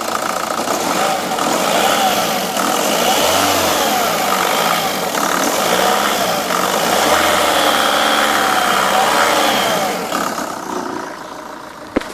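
Vauxhall Astra H's 1.7 CDTI four-cylinder turbodiesel revved up and down several times, settling back towards idle near the end. A single sharp click comes just before the end.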